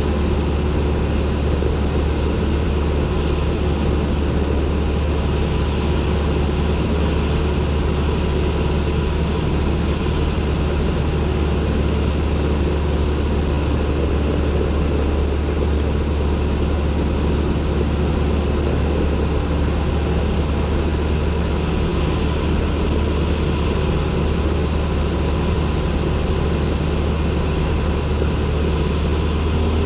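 Cessna 172N's four-cylinder Lycoming engine and propeller running steadily in cruise, heard as a loud, even drone inside the cockpit.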